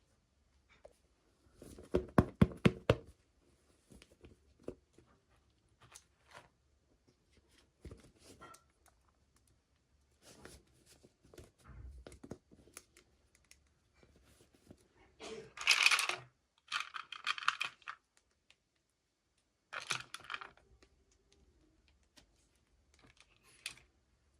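Hands handling toy packaging: a quick run of sharp clicks and taps about two seconds in, then bursts of crinkling and tearing of packaging past the middle and again a little later.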